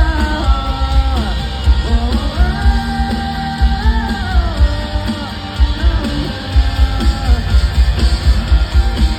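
A rock band playing live through a concert PA, with long held sung notes over guitars and a heavy, pounding bass and kick drum.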